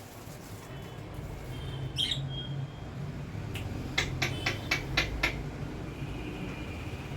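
Pet lovebird giving one short, high squawk about two seconds in, then a quick run of about six sharp clicks a little later, over a steady low room hum.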